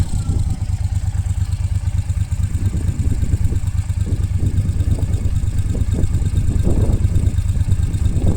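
Moto Guzzi California Classic's air-cooled V-twin engine idling steadily after a start.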